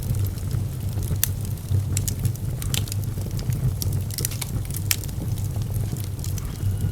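Wood fire burning in a fireplace: a low steady rumble of the flames with irregular sharp crackles and pops, several a second.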